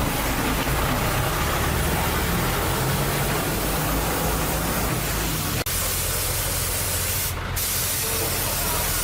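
Steady, loud hissing spray, briefly interrupted about five and a half seconds in.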